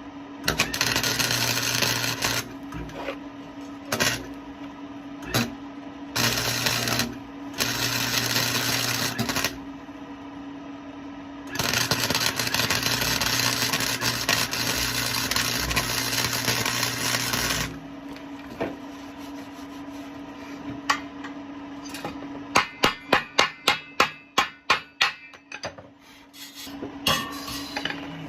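Wire-feed welder laying welds and tacks on steel exhaust pipe: several crackling arc bursts of one to six seconds, the longest about twelve seconds in, over a steady hum. Near the end come about ten quick, sharp metal knocks, evenly spaced.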